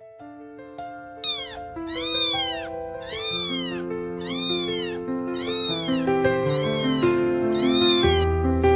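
A cat meowing about seven times at even intervals, each meow rising and then falling in pitch, over soft piano music.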